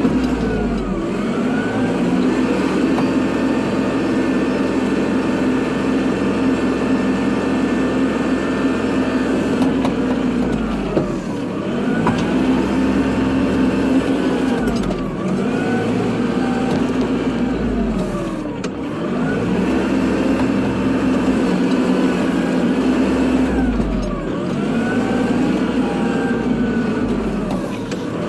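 Kubota tractor's diesel engine running steadily while plowing snow, its pitch dipping and recovering every few seconds.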